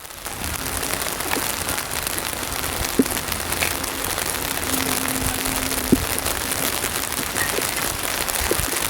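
Heavy rain falling, a steady loud hiss with a few sharper drop taps about three seconds and six seconds in.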